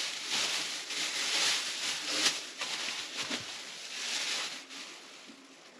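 Irregular rustling and light handling noises with a couple of soft knocks, as pizza toppings are picked up and spread by hand; it fades away near the end.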